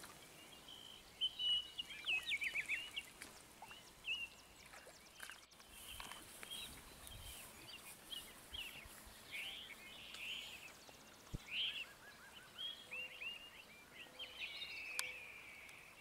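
Several birds singing faintly, many short chirps and trills overlapping.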